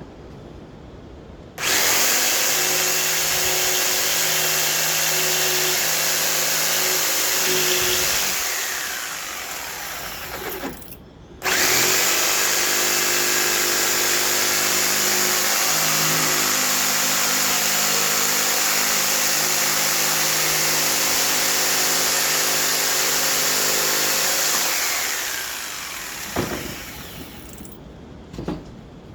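An electric woodworking power tool switched on twice. It runs at a steady full speed for about six seconds, then spins down with a falling pitch. It starts again straight away, runs about thirteen seconds, and spins down again near the end.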